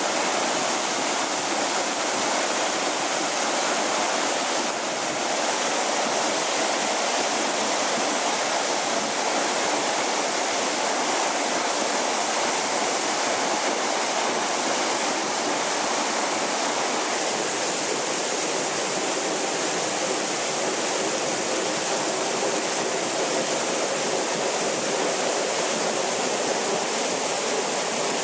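Steinsdalsfossen waterfall: the steady, unbroken rush of water falling close by.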